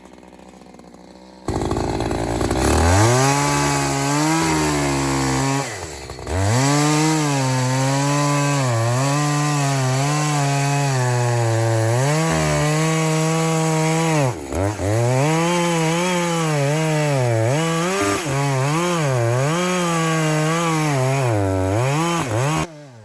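Echo CS-620 two-stroke chainsaw at full throttle cutting into the trunk of a dead ash tree. Its engine pitch sags and recovers under load, with brief drops in revs about six and fourteen seconds in. The sound starts suddenly a second and a half in and stops suddenly near the end.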